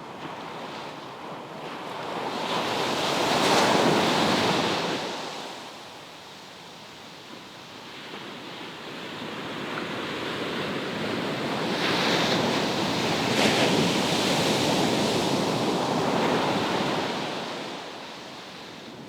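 Sea waves surging in and washing back, two large swells, the first peaking about four seconds in and the second building through the middle and easing off near the end.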